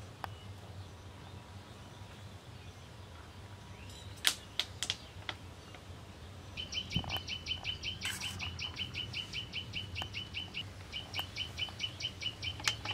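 A few sharp clinks of a steel spoon against a steel bowl about four seconds in; then, from about halfway, a bird calling in a rapid run of high chirps, about seven a second, with a short break near the end.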